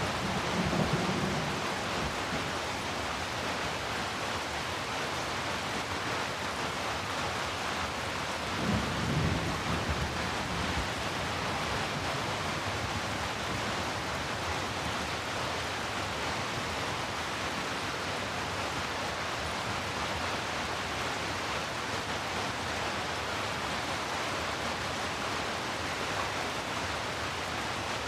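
Steady heavy rainfall, an even hiss, with a brief low rumble about nine seconds in.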